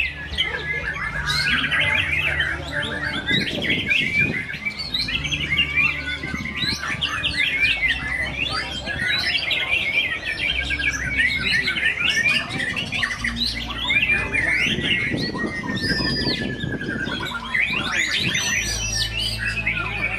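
White-rumped shamas (murai batu) singing, a dense unbroken stream of rapid chattering phrases and clear whistles, with one long falling whistle about two-thirds of the way through.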